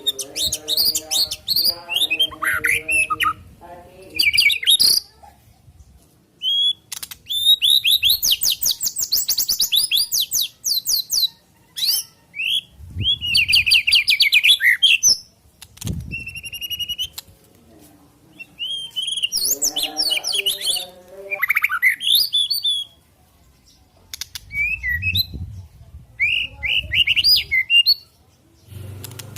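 White-rumped shama (murai batu) singing: rapid, varied phrases of whistles, trills and chattering notes, broken by short pauses.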